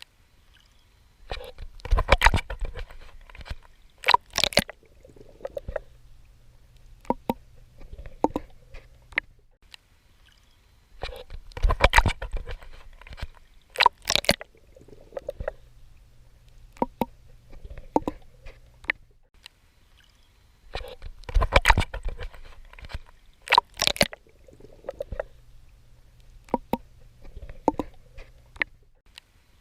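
Swimming in the sea: water sloshing and splashing with the strokes. Each cycle has two loud splashes about two seconds apart, and the cycle repeats roughly every ten seconds, three times.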